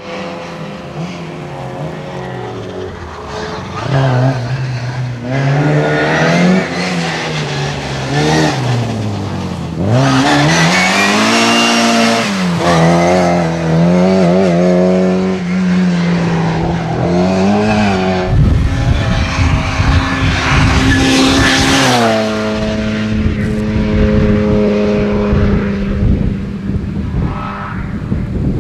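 Rally car engine revving hard, its pitch climbing and dropping again and again as the driver shifts and lifts. Later in the stretch the engine note holds steadier under a heavy low rumble, then fades.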